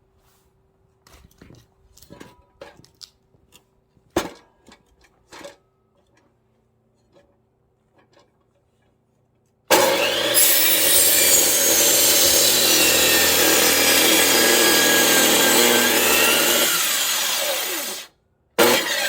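A few light knocks of wood being handled. Then an electric saw starts suddenly and runs steadily, cutting firewood logs. It winds down with a falling pitch and starts again just before the end.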